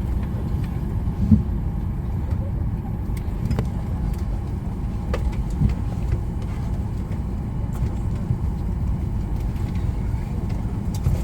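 Steady low rumble of a vehicle heard from inside its cabin, with a faint steady hum and a few light clicks.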